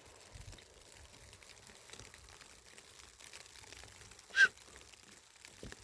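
A bird giving one short, high call that drops in pitch, about four seconds in, over faint background.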